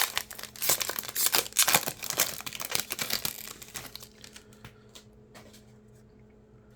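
Trading-card pack wrapper being torn open and crinkled for about four seconds, then a few faint ticks.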